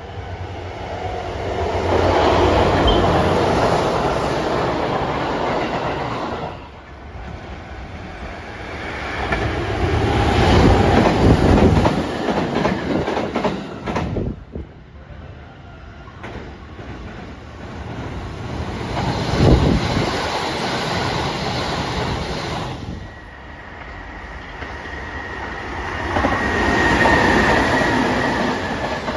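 Sanyo Electric Railway S Limited Express electric trains passing through stations at speed without stopping: four separate pass-bys, each swelling to a loud rush of wheels on rail and then fading. The last pass-by carries a steady high whine.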